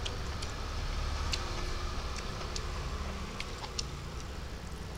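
A person chewing food close to the microphone: small irregular mouth clicks, several a second, over a steady low hum.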